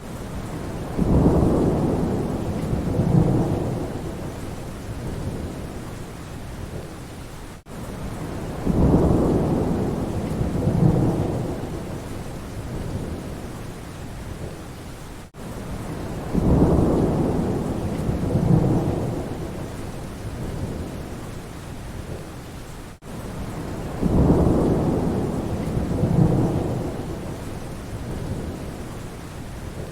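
Steady rain with rolling thunder. The same few seconds of recording repeat about every eight seconds: each time a low rumble of thunder swells twice and fades back into the rain, with a short gap where the loop joins.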